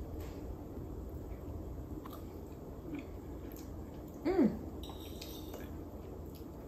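A person eating a slice of artichoke tart: quiet chewing with a few light clicks of cutlery on a plate, and a short hummed "mm" about four seconds in.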